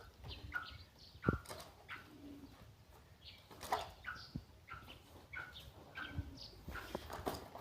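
Birds chirping: short notes repeated about twice a second, with a few sharp clicks among them.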